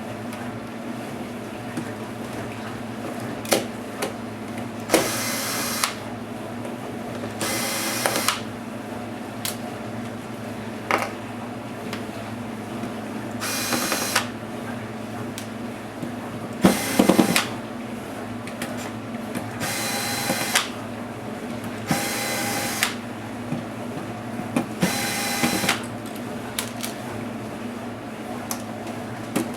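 Small electric screwdriver running in short spurts of about a second, six times, backing screws out of a laptop case, with sharp clicks and knocks of parts being handled between spurts.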